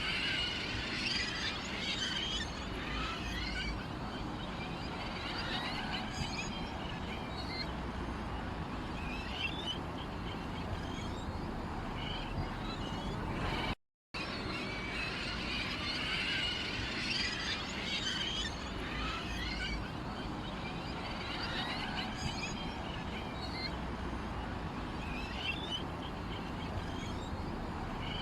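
Small songbirds chirping and twittering over a steady background hiss. The recording cuts out briefly about halfway through, and the same stretch of chirping then repeats as a loop.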